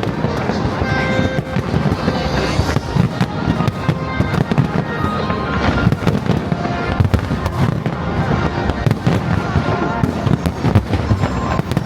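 Fireworks display: a dense, unbroken run of bangs and crackles, with music and voices underneath.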